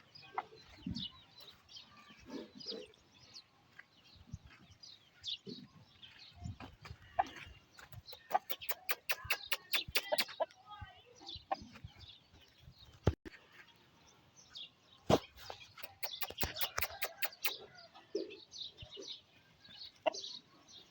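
Aseel gamefowl clucking and calling. Two runs of rapid sharp taps, about six a second, come about eight seconds in and again about fifteen seconds in.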